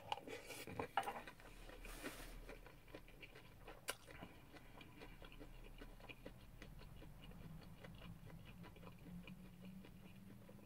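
Faint chewing of a mouthful of shrimp fried rice, with a few light clicks of a wooden spoon against a stainless-steel bowl in the first seconds and a single sharp click about four seconds in.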